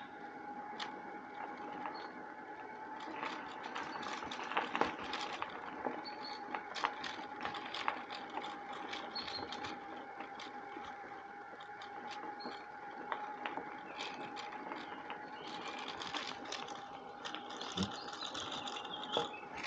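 Bicycle riding along a woodland path: tyres rolling with frequent small clicks and rattles, under a steady whine.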